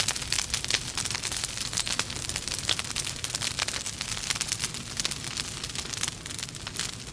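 Wood fire in a fireplace crackling and popping steadily, many small irregular snaps over a soft hiss and low rumble of the flames.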